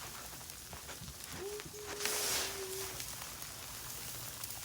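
Sleet (ice pellets) falling, a steady patter of fine ticks on surfaces. About two seconds in a brief louder hiss rises and fades, with a short steady tone under it.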